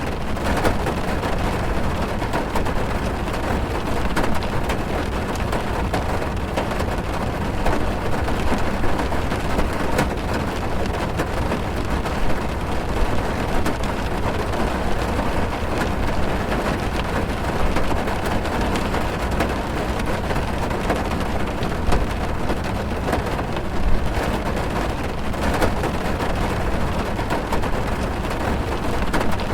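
Heavy rain drumming on the roof and windows of a car, heard from inside the cabin: a steady dense patter of drops over a low rumble.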